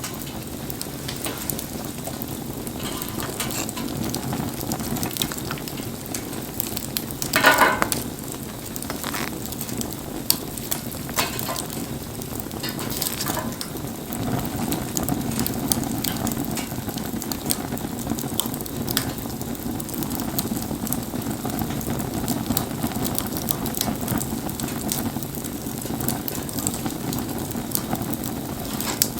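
Wood bonfire crackling with many small pops over a steady hiss, burning in the rain. A louder burst of crackling comes about seven seconds in.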